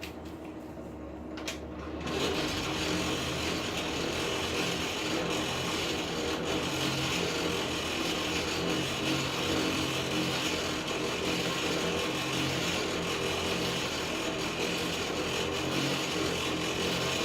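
Forge blower switched on about two seconds in, then running steadily, blowing air into the fire to bring the steel back to heat.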